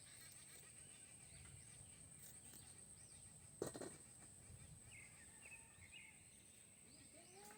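Quiet rural background with faint bird chirps, broken once, about three and a half seconds in, by a single sharp knock.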